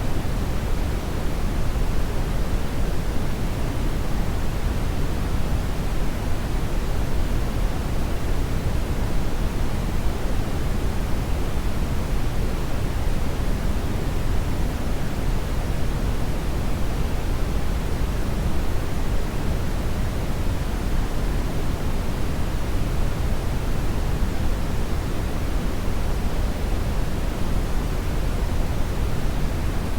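Hair dryer running steadily, a continuous, even, deep rushing noise that never changes.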